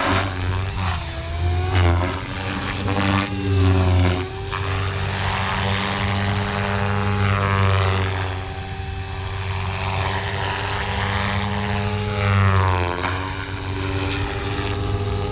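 Blade Fusion 480 electric RC helicopter flying in stunt mode: a steady rotor hum and motor whine whose pitch swings up and down as it manoeuvres.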